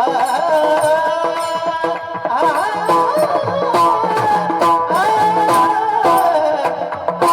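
Marathi kirtan music: a held, wavering melody over a steady rhythm of hand-drum strokes.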